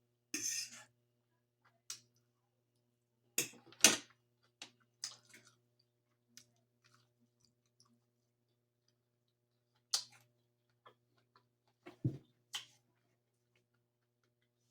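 Close-miked eating sounds of someone chewing food, intermittent, with scattered short sharp clicks and smacks. The loudest come a little under four seconds in and again around ten and twelve seconds in.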